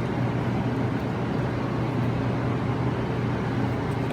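Steady low hum with an even background noise, no distinct knocks or clicks: a constant machine or ventilation drone in the workshop.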